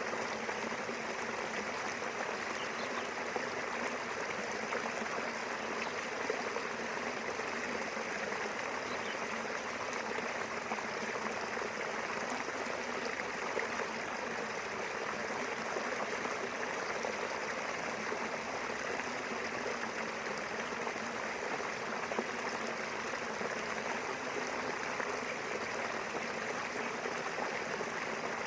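A small river flowing steadily, its water rushing and burbling with no break.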